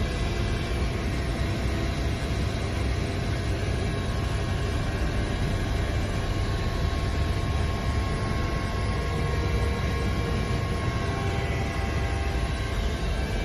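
Coast Guard aircraft in flight: a steady engine drone, a constant low rumble with a few faint steady whining tones above it that hold unchanged throughout.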